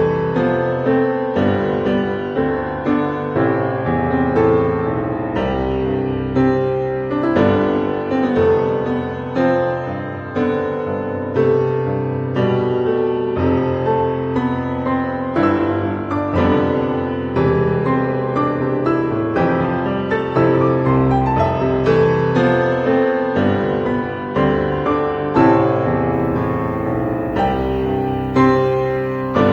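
Background music: piano playing a steady flow of notes.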